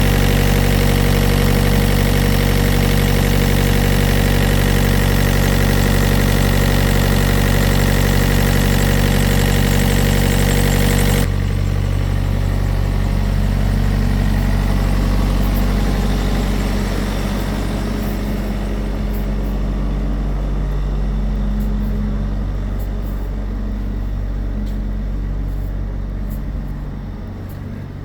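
Engine idling steadily. About eleven seconds in, the sound abruptly turns duller, and it gradually grows quieter toward the end.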